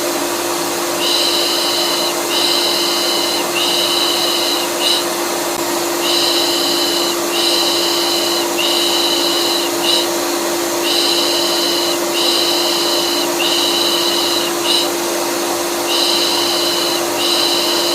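Vacuum cleaner running with a steady drone and hum, mixed with a rhythmic 'pış pış' shushing lull. The shushes come in sets of three long strokes and a short one, repeating about every five seconds, as a soothing sound for a colicky baby.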